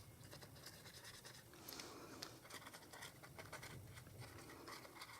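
Faint scratching of a clear Wink of Stella glitter brush pen stroking over cardstock, in short irregular strokes.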